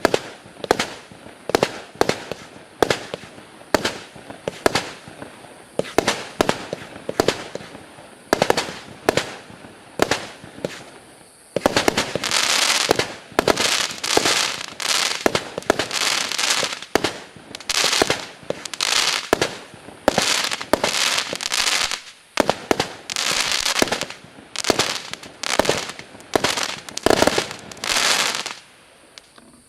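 128-shot 20 mm compact firework cake firing a steady run of shots, about two a second, each with a sharp report. From about halfway the bursts get louder and are filled with a dense crackling hiss, and the barrage stops just before the end.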